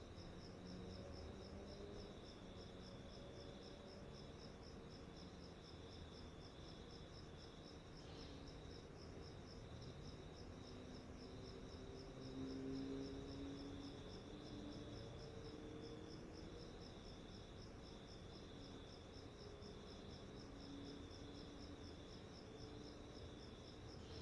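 A faint insect trill, cricket-like, as a fast, even pulsing that holds steady throughout, over a low background hum.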